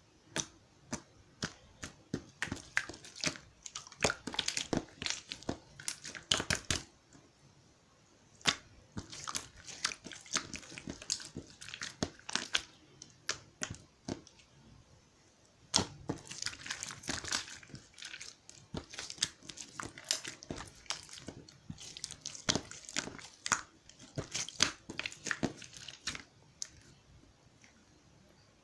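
Irregular quick clicks and crinkly rustling, coming in bursts of several seconds with short pauses between them.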